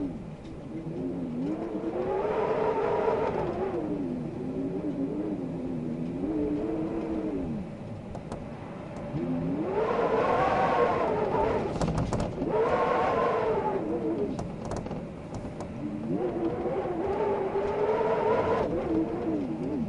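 Wind howling in gusts, its whistling tones gliding up and down in pitch as each of about four gusts swells and dies away. A few faint ticks come near the middle.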